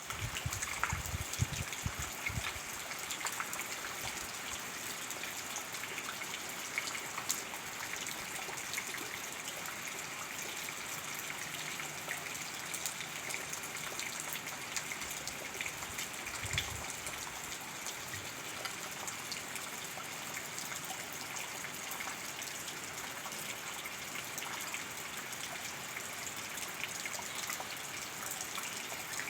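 Heavy rain falling steadily, a continuous hiss with a dense patter of drops and running water. Low rumbling gusts of strong wind hit the microphone in the first couple of seconds and again about halfway through.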